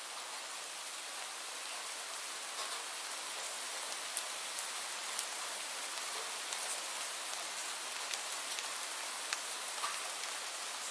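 Steady rain falling, an even hiss dotted with the sharp ticks of single drops hitting nearby.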